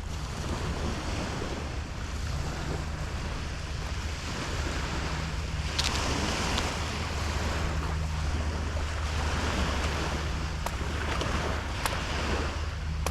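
Ocean surf breaking and washing up the beach, swelling and ebbing in surges, with wind rumbling on the microphone.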